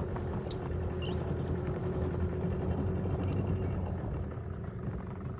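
Boat outboard motor running steadily: a low engine drone with a held tone on top that fades out about four seconds in.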